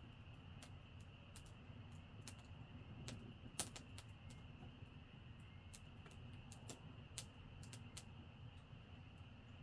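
Wood campfire crackling faintly: irregular sharp pops and snaps, a louder pop about three and a half seconds in and another around seven seconds.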